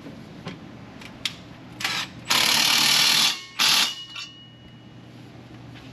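A power tool run in three bursts, the middle one about a second long and the loudest, after a few light metal clicks, as bolts are worked on.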